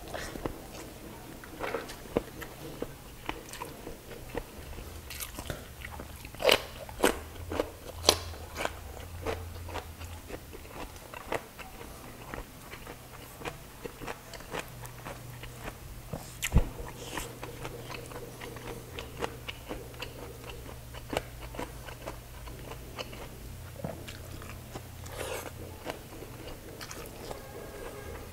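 Close-miked chewing and wet mouth smacks from eating rice and chicken by hand, with many short sharp clicks, the loudest cluster around seven seconds in.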